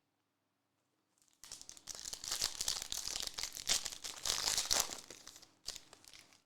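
A 2021-22 Chronicles basketball hobby pack's wrapper being torn open and crinkled: dense crackling that starts about a second and a half in and lasts about four seconds, with a short last crinkle near the end.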